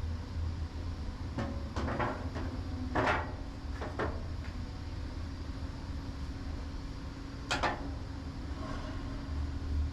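A series of clunks and knocks, a few seconds apart, over a steady low hum.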